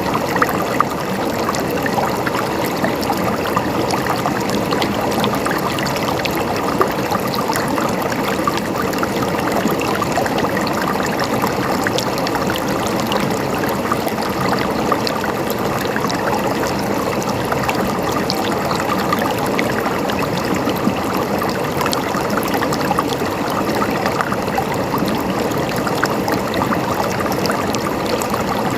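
River water flowing and splashing over rocks, a steady rush with many small splashes and gurgles.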